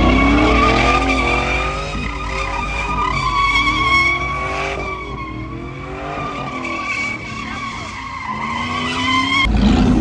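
A truck doing a burnout: tires squealing in a high, wavering screech over the revving engine, whose pitch climbs at the start. The sound changes abruptly near the end.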